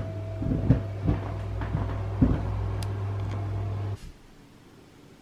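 Several knocks and clunks over a steady low hum, which cuts off abruptly about four seconds in.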